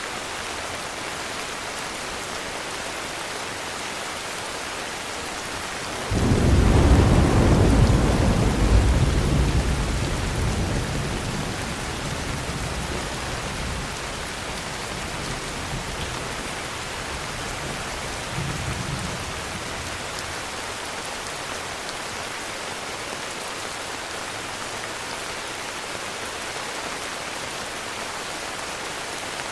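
Steady heavy rain, with a clap of thunder breaking in about six seconds in and rumbling low for several seconds as it fades back into the rain.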